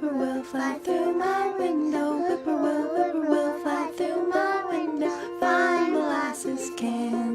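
Children's folk song: a voice singing a melody over plucked ukulele accompaniment.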